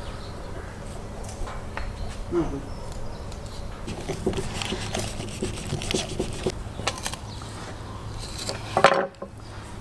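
Knife work on a crocodile carcass being skinned: scattered scrapes and clicks of the blades over a steady low hum, with a louder scrape near the end.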